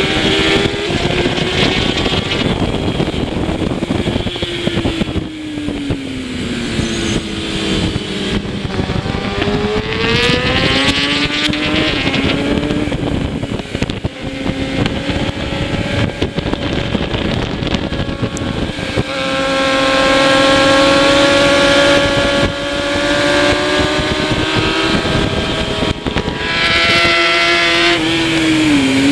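Kawasaki ZX-10R superbike's inline-four engine at race speed, heard onboard with heavy wind rush: the engine note falls and climbs through gear changes and is held high for several seconds in the second half before dropping off near the end.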